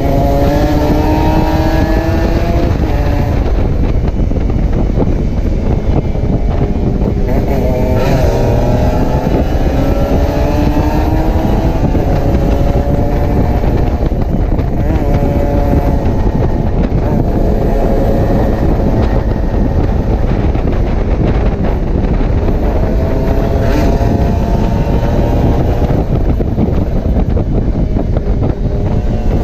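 Kawasaki Ninja 150 two-stroke single-cylinder engine pulling hard at speed. The pitch climbs and drops back several times as it revs up through the gears, under heavy wind noise on the microphone.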